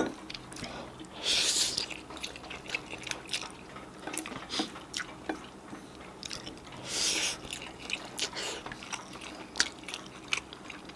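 Close-miked eating sounds: wet chewing with many small smacking clicks, and two short slurps, about a second in and about seven seconds in.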